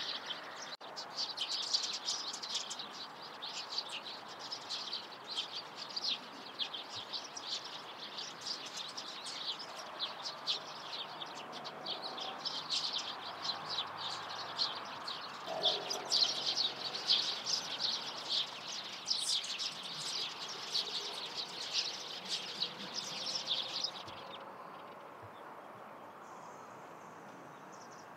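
Small songbirds chattering: a dense, continuous stream of short, high chirps that stops abruptly about four-fifths of the way through, leaving only a few faint high notes.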